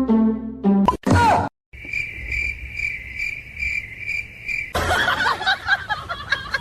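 A high-pitched chirping trill that pulses about two to three times a second for a few seconds, after a brief snatch of music. It gives way to a noisier jumble of sound near the end.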